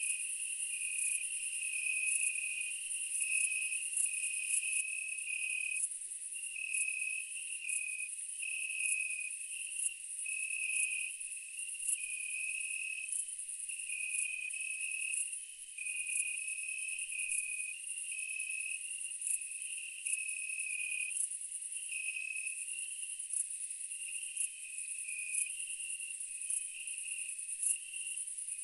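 Insect chorus of crickets: a steady high trill with a lower chirp repeating rhythmically underneath.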